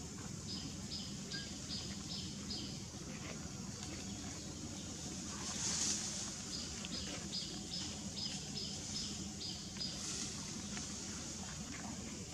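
A bird calling in two runs of short, high chirps, about three a second, over a steady low outdoor rumble.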